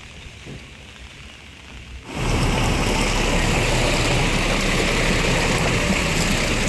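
Loud, steady rush of water that starts suddenly about two seconds in, after a quieter hiss.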